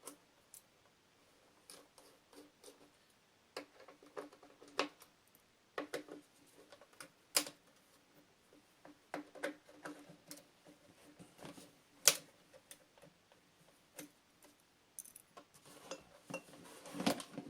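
Scattered sharp clicks and knocks of hand tools working on a leaf blower's plastic housing as its outer shell is unscrewed, with the loudest knock about twelve seconds in.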